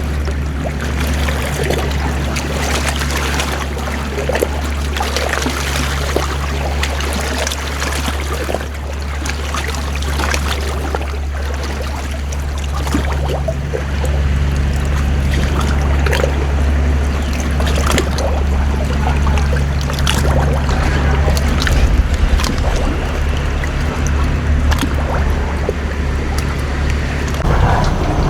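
A boat's engine running steadily, with water rushing and splashing alongside. The engine note shifts about a second before the end.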